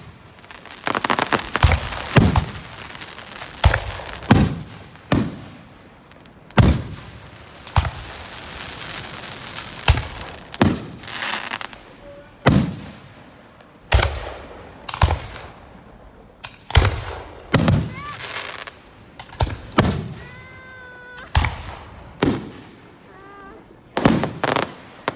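Fireworks display: aerial shells bursting in a steady run of loud booms, about one every second or so, with crackling between some of the bursts.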